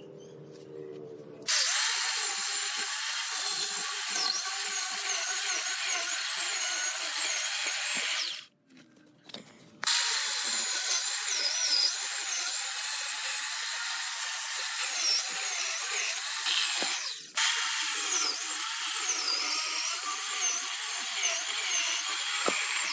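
A handheld power tool running at a high whine, its pitch wavering as it works. It runs in three stretches with two short breaks.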